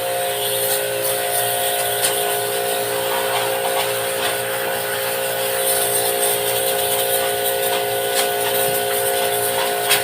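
Small electric pressure washer motor running steadily with a buzzing whine, over the hiss of its water spray, as used to wash a split-type air conditioner.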